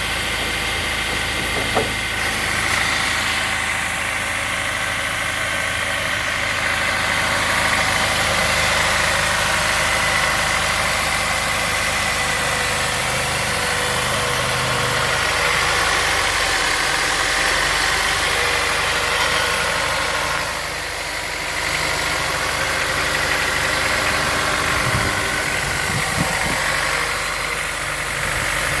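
Honda S2000's four-cylinder engine idling steadily after a cold start.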